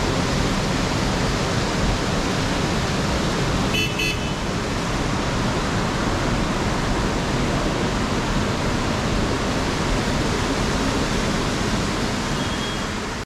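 Steady rush of fast-flowing river water, with a brief high-pitched tone about four seconds in.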